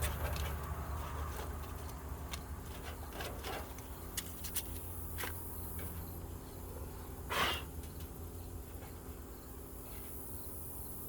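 Faint scattered clicks and light taps of small tools being handled, over a steady low hum, with one louder short scrape about seven seconds in.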